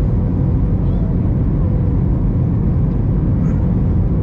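Steady cabin noise inside an Airbus A321 airliner in flight: the engines and the rush of air along the fuselage, heard from a window seat, with a faint steady tone above it.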